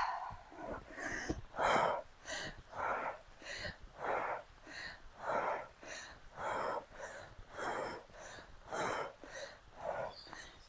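A woman breathing hard and fast close to a clip-on microphone, short puffs in and out about every half second, with the strain of holding a dead hang from monkey bars.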